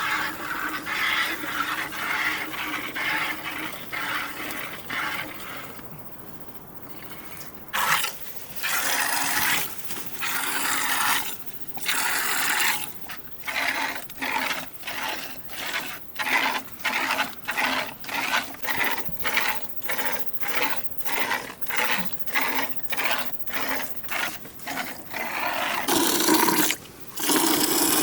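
Repeated scraping or rubbing strokes. They come in a fast, even rhythm of about two a second through most of the second half.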